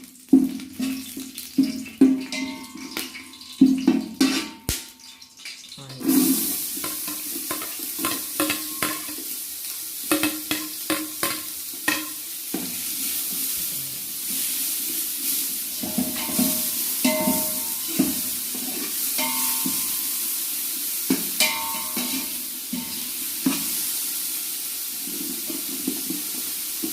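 A metal spoon knocking and scraping in a pot of hot ghee and oil with whole spices in it. About six seconds in, more food goes into the fat and a steady sizzle starts, with stirring strokes continuing over it.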